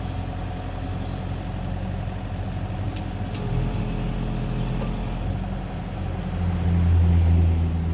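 Kubota excavator's diesel engine running steadily while the hydraulic grab is opened and closed; about two-thirds of the way in the engine note gets louder and heavier as the hydraulics take load. A single sharp click about 3 seconds in.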